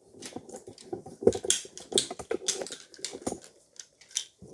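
Irregular clicks, taps and rattles of plastic toy pieces being handled and fitted together.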